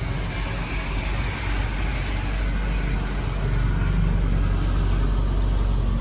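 An engine running steadily with a low rumble that grows a little louder partway through.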